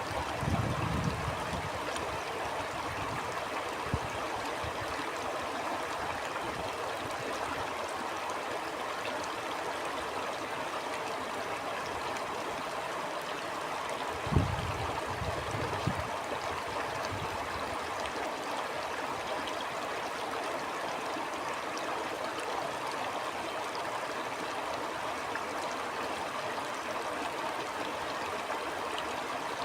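A stream flowing steadily, with an even rushing hiss of water. It is broken by short low thumps or rumbles, about a second in and again about halfway through.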